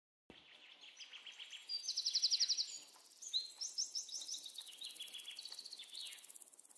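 Birds chirping and singing, with several different calls and fast high trills overlapping; it starts abruptly just after the beginning, and the loudest, a rapid trill, comes about two seconds in.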